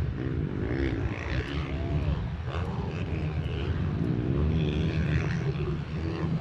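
Small minibike engines running as they race, their pitch rising and falling as the riders work the throttle, over a constant low rumble.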